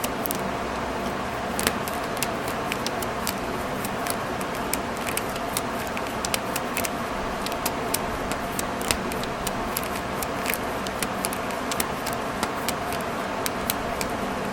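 Small, sharp clicks and taps, irregular and a couple a second, like a small metal staple remover being handled and worked, over a steady low hum.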